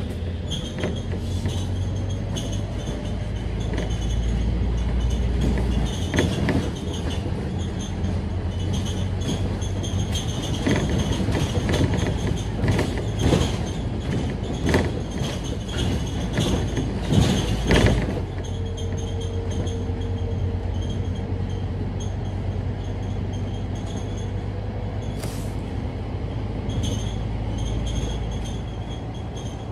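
Scania K310UD double-decker bus running, its five-cylinder diesel giving a steady low drone. Between about 6 and 18 seconds in there is a run of rattles and knocks, which then settle to the even drone.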